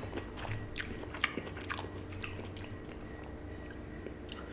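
A person chewing a mouthful of panta bhat, water-soaked rice, with mashed bhorta and fried fish: soft wet mouth clicks and smacks, most of them in the first two and a half seconds and fewer after.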